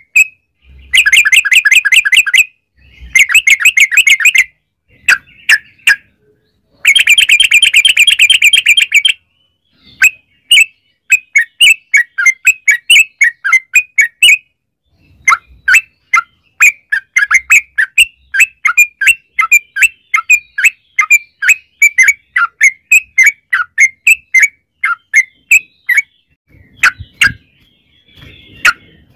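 Yellow-vented bulbul (trucukan) singing long rapid-fire runs of chirping notes, then a long string of separate bubbly chirps. This is the 'ropel panjang' song that bird keepers use as a lure call to set other bulbuls singing.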